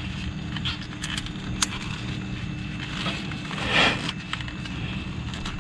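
Hand tools and parts being handled: scattered light clicks and clinks, with a short scraping rustle just under four seconds in, over a steady low hum.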